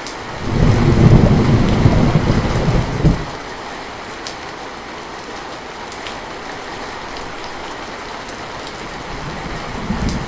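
Heavy rain falling steadily, with a loud low rumble of thunder from about half a second in to about three seconds in, and a weaker rumble near the end.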